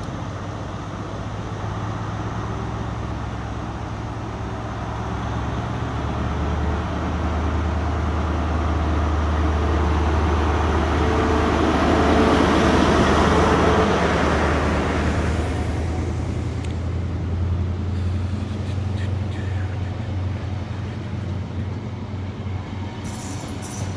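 A diesel High Speed Train (class 43 power cars) moves past the platform: a steady low engine hum underneath a rush of engine and wheel noise that builds to a peak about halfway through, then fades. A high-pitched scraping noise joins near the end.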